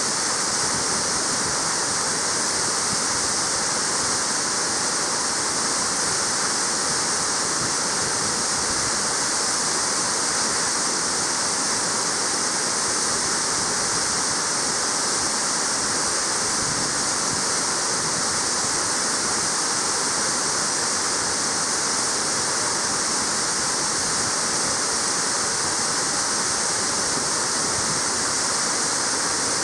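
Waterfall plunging steadily: a loud, even rush of falling water, constant throughout with no separate events.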